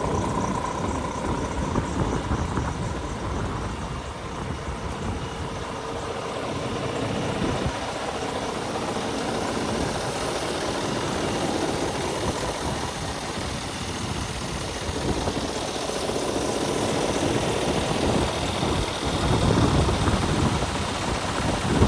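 Scania truck engine running steadily, getting a little louder near the end.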